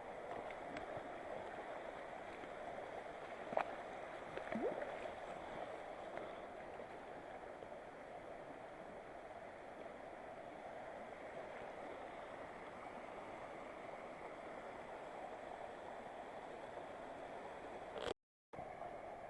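Mountain river rushing steadily over rocks, with two short knocks about three and a half and four and a half seconds in. The sound cuts out for a moment near the end.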